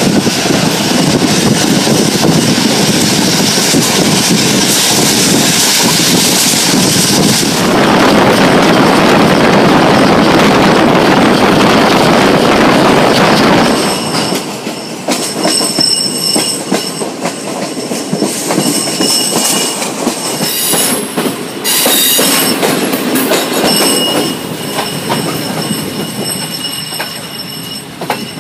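Passenger train running at speed, heard from an open window: wheel noise and rushing air, with a louder, deeper rumble for about six seconds in the middle. About halfway through the sound changes abruptly to quieter running, with high steady wheel squeal and scattered clicks of rail joints.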